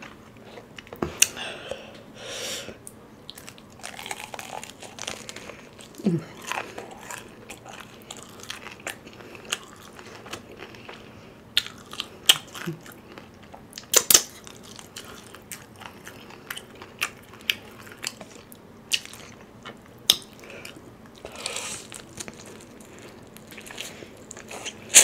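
Close-up eating of crispy fried chicken: irregular crunches and bites, with wet mouth clicks and smacks while chewing. One of the loudest crunches comes near the end, as a piece is bitten.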